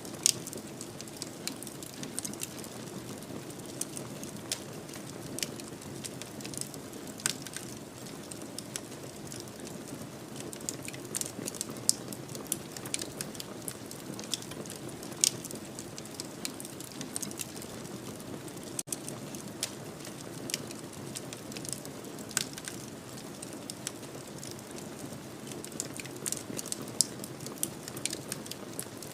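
Wood fire in a fireplace crackling: irregular sharp pops and snaps over a steady low rush of the burning fire.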